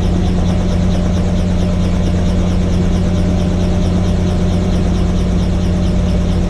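Helicopter engine and rotor running, a loud steady low hum with a fast, even pulsing above it.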